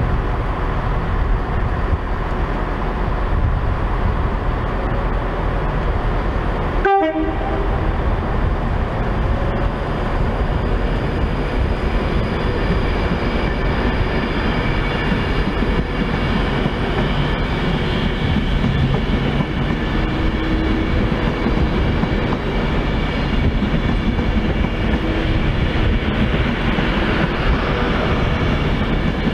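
Train running close by, a loud steady rumble of engine and rail noise that cuts out briefly about seven seconds in.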